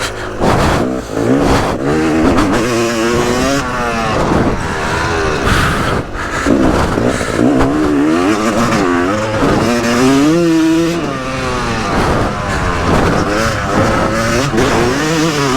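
Yamaha YZ250 two-stroke motocross bike engine revving hard, its pitch climbing and dropping again and again as the throttle is opened and closed.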